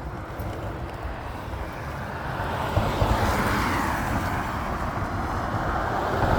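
Wind rumble on the microphone of a moving electric scooter, with the tyre hiss of a passing car swelling from about halfway in.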